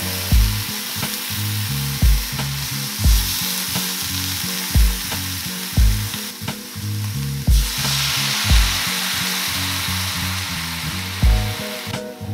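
Lobster halves sizzling in a hot stainless-steel pan as they are stirred and tossed with wooden utensils.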